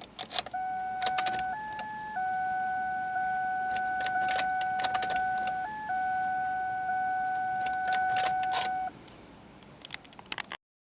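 A car's electronic warning tone sounds steadily for about eight seconds, stepping briefly higher twice, with scattered clicks over it. No engine is heard running or cranking.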